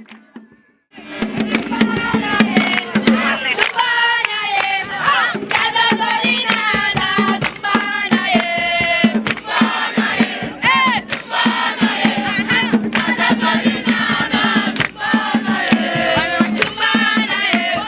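A group of young scouts chanting and shouting a campfire song together, many voices at once, starting about a second in after a brief silence.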